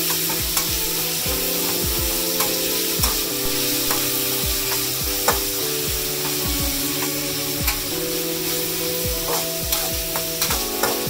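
Sliced meat and chopped onion sizzling in hot oil in a metal wok while a metal spatula stirs and scrapes through it, with repeated clicks of the spatula against the pan.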